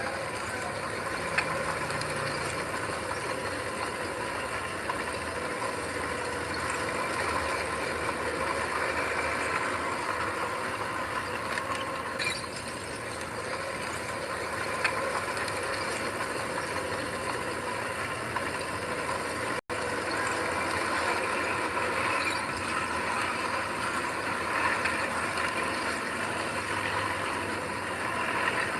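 Heavy earthmoving machinery working: a diesel engine running steadily with metallic clanking and rattling. The sound cuts out for an instant about two-thirds of the way through.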